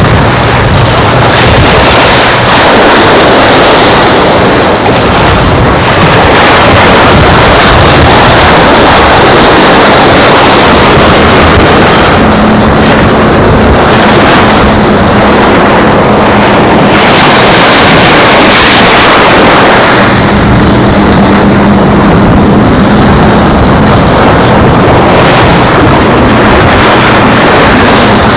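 Loud, steady rush of wind and surf on the shore, with a faint, steady engine hum underneath.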